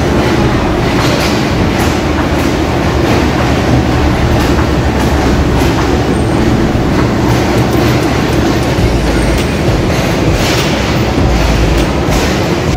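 Pakistan Railways Green Line passenger train rolling into the station, its wheels clicking unevenly over the rail joints under a steady loud rumble.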